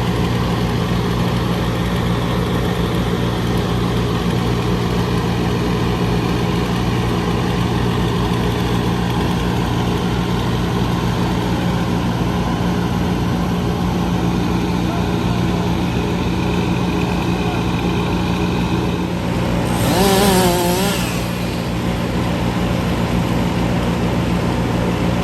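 A large engine running steadily at a constant speed. About twenty seconds in, a brief wavering high-pitched sound rises over it for about a second.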